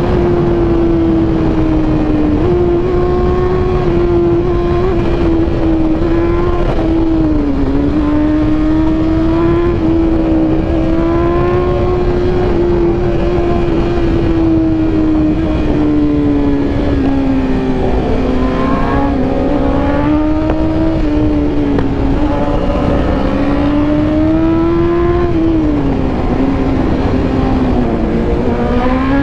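Superbike engine running at speed while riding, its note holding steady and rising and falling gently with the throttle, dipping briefly a few times, over a constant low rush of wind and road noise.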